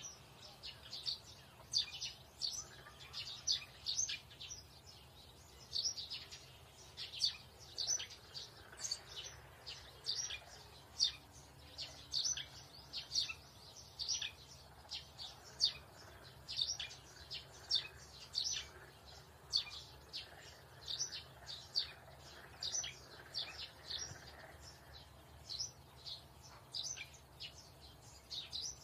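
Small birds chirping, short high notes repeated two or three times a second, over a faint low hum.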